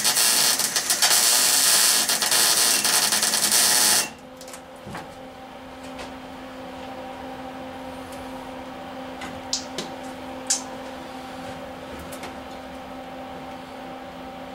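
MIG welder arc crackling on thin cab floor sheet metal, then cutting off suddenly about four seconds in; the welder suspects a poor ground is spoiling the weld. A steady hum and a few light clicks follow.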